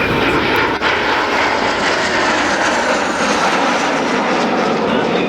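Alpha Jet jet trainers passing low, their turbofan engines making a loud, steady rushing jet noise.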